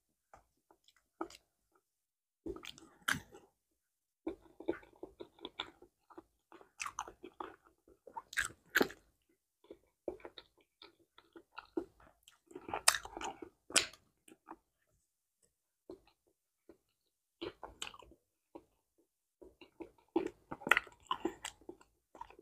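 A person chewing mouthfuls of ripe banana in irregular spells with short quiet pauses between them, and banana peels being pulled back between bites.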